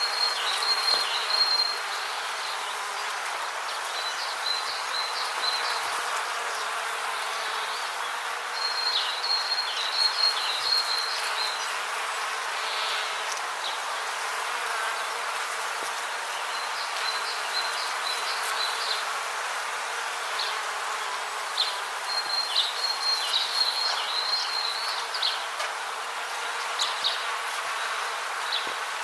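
Rainforest ambience: a steady even hiss under a high, rapidly pulsed chirping call. The call comes in runs of a second or two and repeats every few seconds.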